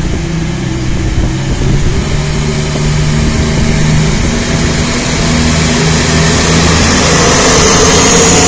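A train's engine running steadily and growing gradually louder, with a high whine coming in near the end.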